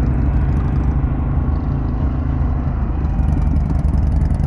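Steady low rumble of a Harley-Davidson Pan America motorcycle under way, its engine mixed with road and wind noise.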